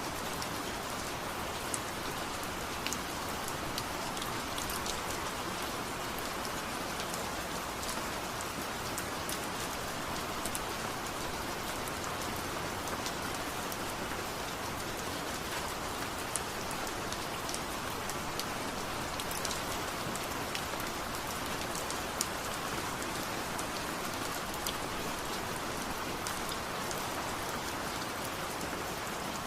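Steady rain falling, with a constant hiss and many small scattered drop ticks.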